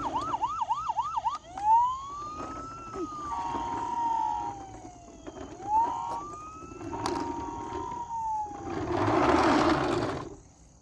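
Electronic siren sound effect from a Paw Patrol toy truck: a fast yelping siren at first, then slow rising and falling wails with steady tones between them, and a loud hissing burst near the end.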